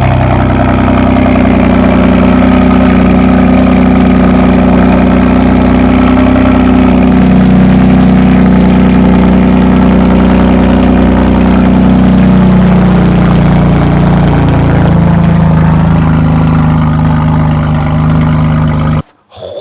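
BMW engine idling loud and steady just after a cold start, through a freshly fitted straight-piped exhaust (full straight pipe from the catback). It cuts off suddenly near the end.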